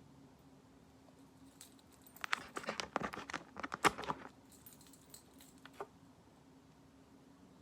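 Quick small clicks and taps of plastic press-on nails being handled, a dense cluster for about two seconds, then a few scattered clicks.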